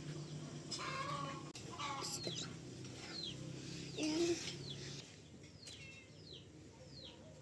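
Domestic poultry calling: a few louder clucking calls in the first seconds, then a run of short, high, falling peeps, about two a second, like chicks peeping. A steady low hum underneath stops about five seconds in.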